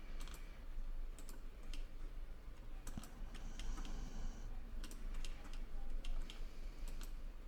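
Irregular, scattered clicks of a computer mouse and keyboard during CAD point selection, over a low steady hum.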